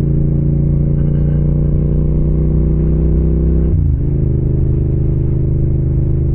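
Yamaha MT-07's parallel-twin engine running steadily under way, with a brief dip in pitch about four seconds in before it settles again.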